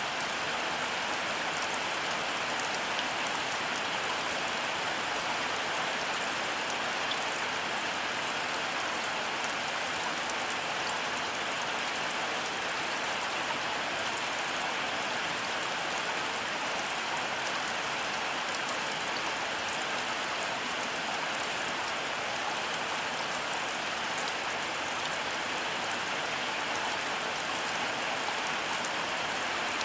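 Heavy rain falling steadily, an even wash of rain noise with fine drop patter.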